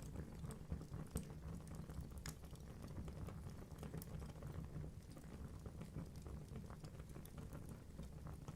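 Wood fire burning in a fireplace: a steady low rumble of flame with logs crackling in many small irregular snaps and a few louder pops.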